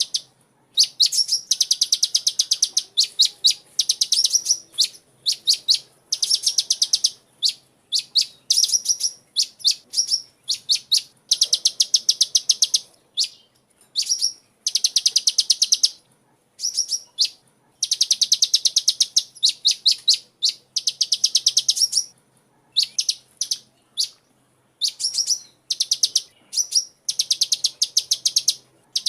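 Sunbird singing: fast trains of high, thin chirps in bursts of a second or two, with short pauses between them.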